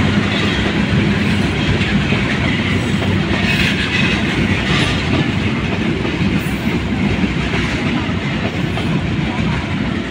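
Kurigram Express intercity passenger coaches rolling past, their wheels running on the track in a steady, loud rumble. A low hum fades in the first couple of seconds, and the rumble eases slightly near the end as the last coaches go by.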